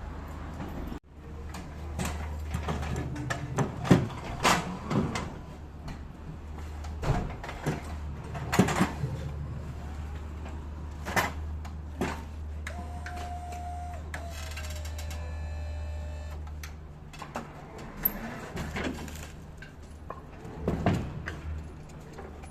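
Knocks and clatter of a heavy pallet being unloaded from a lorry, over a steady low hum that stops about three-quarters of the way through. Just past the middle a brief whine holds one pitch, then falls.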